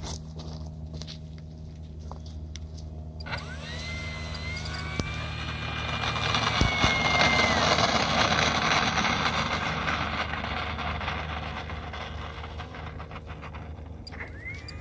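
RC Carbon-Z Cessna model airplane's electric motor and propeller throttling up for takeoff. About three seconds in, a whine rises in pitch and holds steady for a few seconds, then falls away, while a rushing propeller noise swells and is loudest mid-way. A second short rise and fall in the whine comes near the end.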